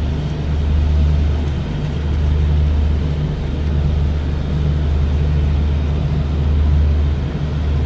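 Steady low mechanical hum of the Duronto Express train as it sets off from the station, with no rail clatter.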